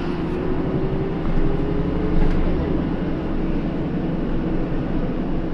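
Hino Rainbow II (PDG-KR234J2) city bus running, heard from inside the cabin: a steady engine drone and road rumble, with a whine that rises slightly in pitch over the first two seconds and then holds.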